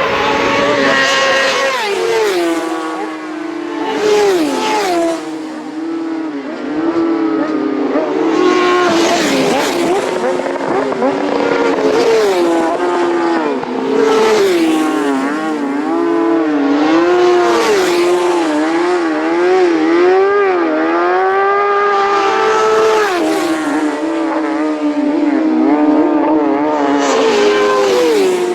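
Racing motorcycles at full throttle passing one after another, a loud pass every few seconds. The engine pitch climbs and drops through gear changes, and often several bikes are heard at once.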